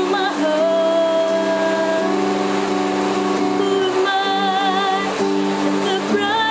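A woman singing long held notes with vibrato over steady accompaniment chords, with heavy rain as an even hiss underneath.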